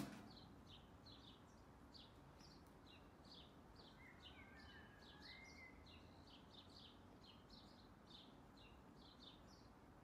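Faint chirping of small songbirds in the trees: many short, high chirps repeated a few times a second, with a rising whistled note about four seconds in. A sharp click right at the start.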